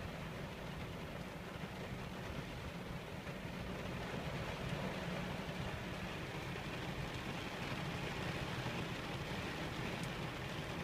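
Steady rain falling, an even hiss with a constant low hum underneath.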